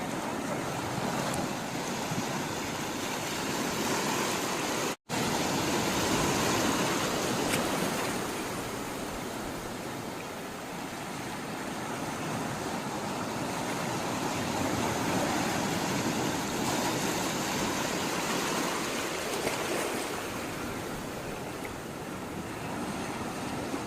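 Sea water washing and surging, a steady rush that swells and fades slowly every several seconds; the sound drops out for an instant about five seconds in.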